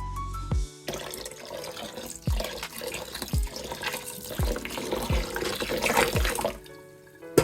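Water running from a kitchen tap into a sink, as a steady splashing that fades out near the end, over background music with a deep beat.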